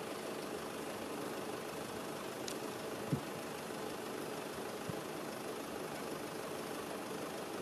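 Steady engine hum with a few faint clicks.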